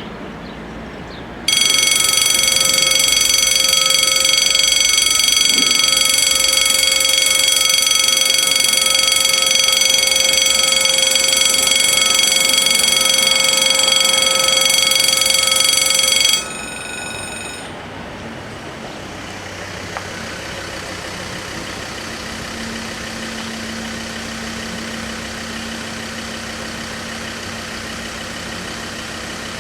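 Level crossing warning bells ringing loudly and continuously with a steady electronic tone, cutting off sharply about sixteen seconds in. A quieter, steady low engine hum follows.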